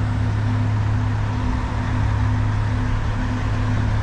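Semi-truck diesel engine running steadily, heard from inside the cab: a constant low hum with a fainter tone pulsing about twice a second.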